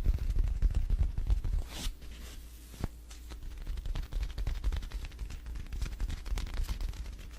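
Rapid clicking, tapping and clattering of containers being handled and set down while a refrigerator is restocked, over a low steady rumble.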